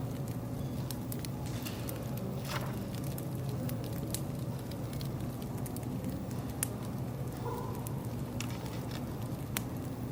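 Wood fire crackling, with scattered sharp pops and snaps over a steady low hum.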